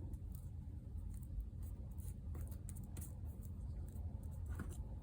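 Faint paper handling: light rustles and small scattered ticks as paper pieces are pressed onto a ticket, over a steady low hum.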